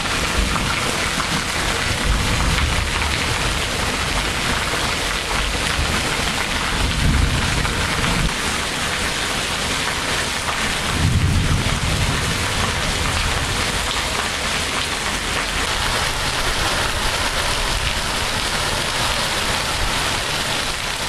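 Heavy tropical rain pouring down in a steady, loud hiss, with brief low rumbles about seven and eleven seconds in.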